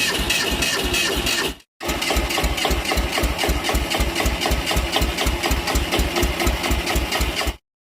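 Restored tractor engine running at a steady idle, with an even beat of about six firing pulses a second. It drops out for an instant at about 1.7 s and stops abruptly just before the end.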